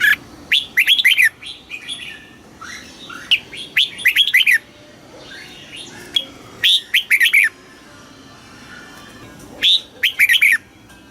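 Red-whiskered bulbul singing: short phrases of quick, rising and falling whistled notes, about five bursts with pauses between them, softer chirps in the gaps.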